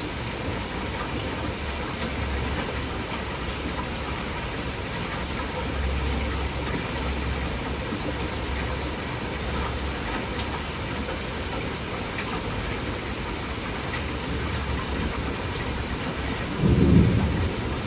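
Heavy rain falling steadily in a thunderstorm, with low rumbles of thunder coming and going. A brief, louder low thump sounds near the end.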